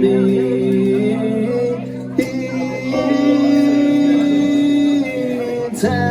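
Live song: acoustic guitar accompaniment under long held sung notes, with chords struck about two seconds in and again near the end.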